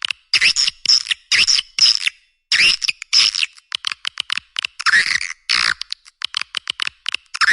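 A recorded edible-nest swiftlet call track of the kind played to lure swiftlets into a nesting house: quick runs of sharp clicking chirps alternating with longer buzzy twitters, several calls a second without pause. It sounds thin, with nothing below the chirps.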